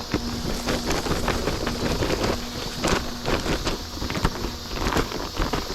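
Footsteps through grass and undergrowth, with irregular rustling and snapping of vegetation, over the steady low hum of a small electric fan in a fan-cooled work jacket worn close to the microphone.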